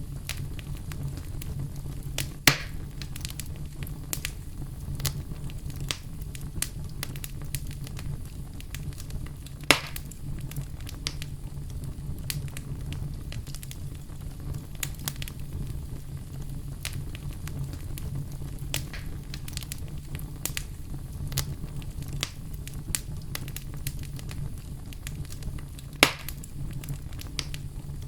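Campfire burning: a steady low rumble of flames with frequent small crackles, and three louder pops of the wood, a couple of seconds in, about ten seconds in and near the end.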